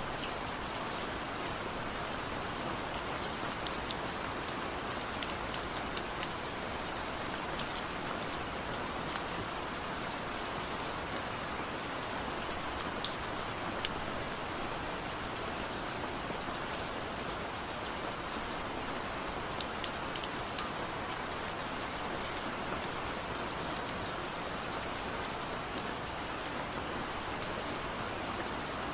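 Steady rain falling, with many scattered sharp drops ticking close by over the even hiss.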